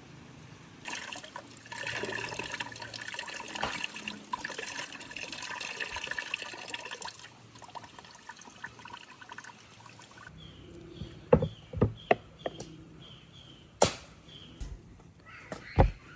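Water pouring and splashing into a container for several seconds, then several sharp knocks a few seconds later.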